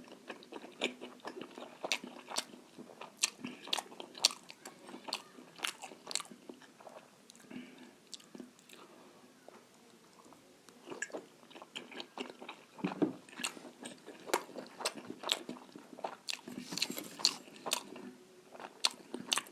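Close-up chewing of a large momo dumpling: wet mouth clicks and smacks at an uneven pace, thinning out for a few seconds around the middle.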